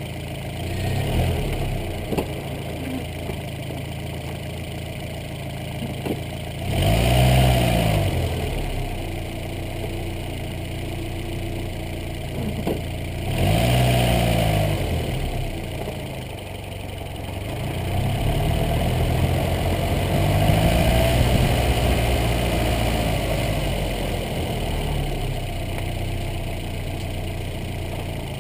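1980 VW Mk1 Scirocco inline-four engine idling and revved in short blips, three times, then held up longer and let fall back to idle. The motor mounts are worn through, so the engine rocks freely as it revs.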